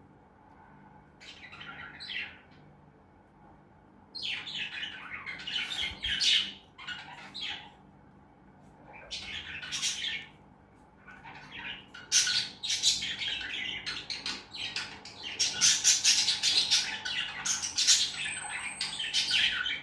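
Pet lovebirds chirping and chattering in shrill, rapid bouts with short pauses between them. The chatter becomes nearly continuous in the last third.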